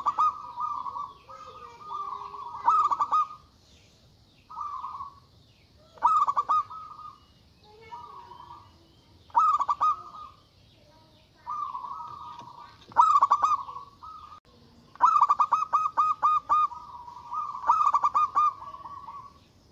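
Zebra dove (local perkutut) cooing: short phrases of quick staccato coo notes with a drawn-out tail, repeated every one to three seconds. A longer run of rapid notes comes about fifteen seconds in.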